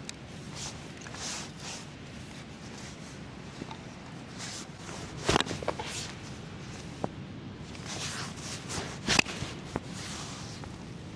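Scattered rustling and shuffling steps, with a few sharp knocks; the two loudest come about five and nine seconds in.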